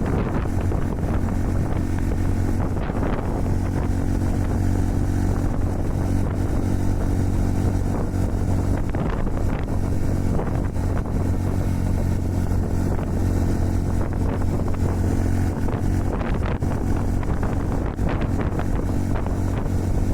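Honda Super Cub 110's single-cylinder four-stroke engine running steadily while riding, with heavy wind noise buffeting the microphone.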